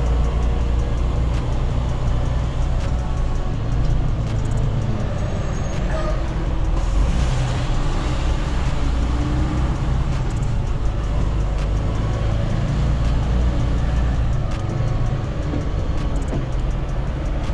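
A semi truck's diesel engine running steadily at low speed.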